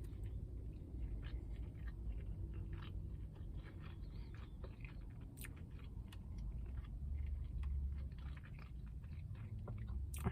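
A person chewing a mouthful of hand-breaded spicy fried chicken sandwich, with many small crisp crunches of the fried breading.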